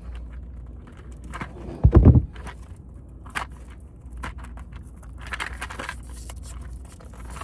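Handling noise while sorting through a pack of wire connectors: scattered small clicks and rustling. A heavy thump about two seconds in, and a longer rustle a little after five seconds.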